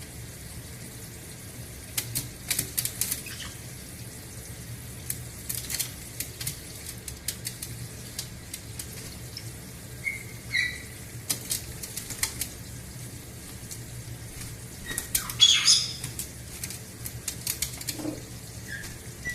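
Caique parrots bathing in a kitchen sink, flapping their wet wings and splashing in the water in irregular flurries. A short squawk comes about ten seconds in, and a louder, shrill squawk comes around fifteen seconds.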